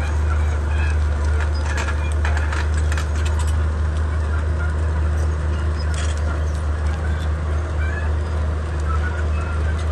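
Komatsu D31P bulldozer's diesel engine running steadily with a deep drone, with bursts of sharp cracks and knocks about two to three seconds in and again around six seconds.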